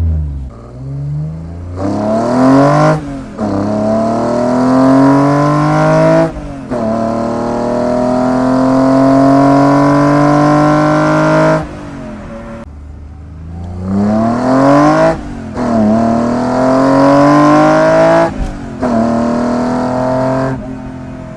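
BMW M54B30 inline-six on individual throttle bodies revving hard several times, the pitch climbing and then dropping off sharply as the throttle snaps shut. The longest pull comes near the middle, climbing steadily for about five seconds before it cuts off.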